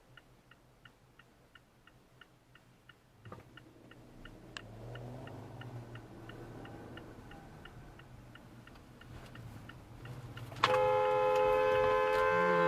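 Car turn signal clicking faintly inside the cabin, about three to four ticks a second, fading under rising engine and road noise. About two-thirds of the way through, a loud, steady car horn blast starts and holds.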